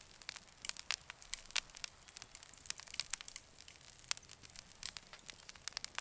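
Campfire crackling: sharp, irregular pops and snaps, several a second, over a faint hiss.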